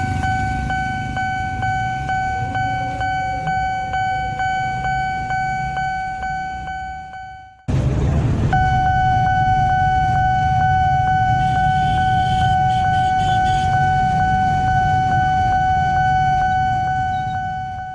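A steady single-pitched warning tone over a low rumble, pulsing about two to three times a second and fading before it cuts out abruptly about seven and a half seconds in. It returns about a second later as one unbroken tone that fades near the end.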